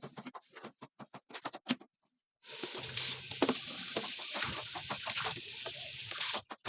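A run of small clicks and knocks from things being handled, then water running steadily for about four seconds, turned on and off abruptly.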